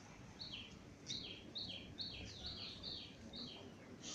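A bird chirping over and over, about two calls a second, each call a high note stepping down to a slightly lower one, over faint background noise.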